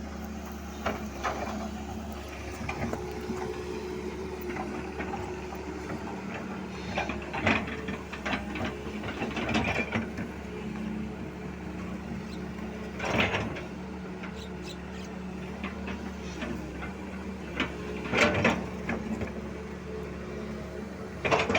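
A motor running steadily with a low hum, with irregular mechanical clattering on top.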